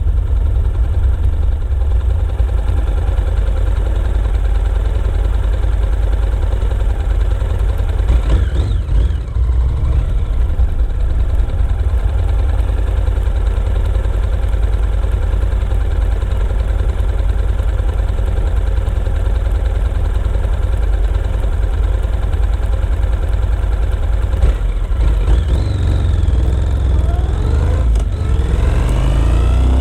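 Motorcycle engine running at a steady cruise under a heavy low rumble. The revs shift about eight seconds in, and they climb again near the end as it accelerates.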